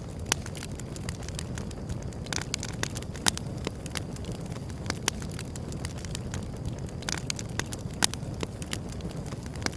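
Wood fire burning, a steady low rumble of flame under irregular crackling and sharp snapping pops.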